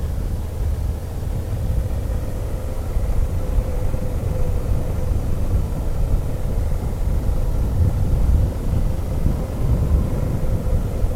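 Motorcycle on the move, its engine running steadily under heavy wind buffeting on the microphone.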